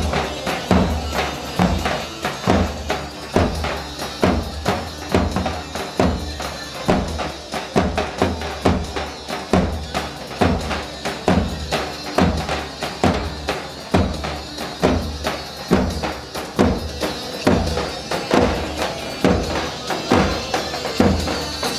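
Instrumental halay dance music from a live wedding band: a keyboard melody over a steady, driving drum beat.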